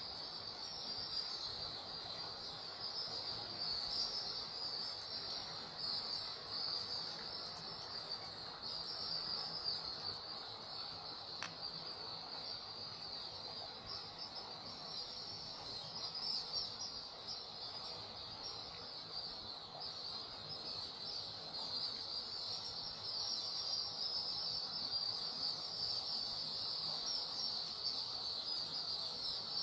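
A dense, steady, high-pitched chirring chorus of many small animals, flickering continuously without pause.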